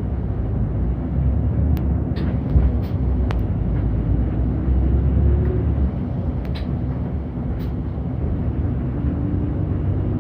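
City bus running, heard from inside the cabin: a steady low engine and road rumble with a few short clicks and rattles.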